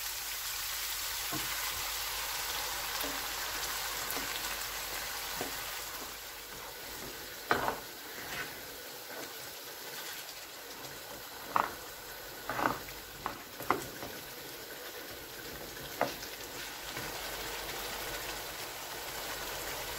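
Yoghurt-marinated chicken sizzling as it fries in a pan of hot oil and tomato masala, the sizzle settling lower after about six seconds. A spatula stirs it, with several sharp knocks against the pan in the middle stretch.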